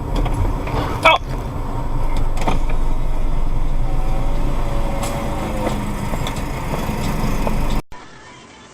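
Steady low rumble of a moving car, engine and road noise as picked up by a dashcam, with one sharp loud knock about a second in. The sound cuts off abruptly near the end.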